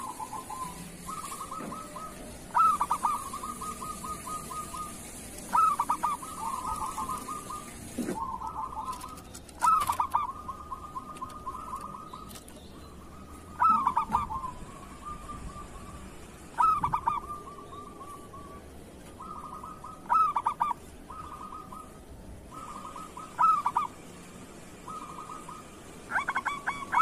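Zebra dove (perkutut) cooing, about eight phrases in all, one every three to four seconds. Each phrase opens with a loud note and trails off into a run of quick, softer notes.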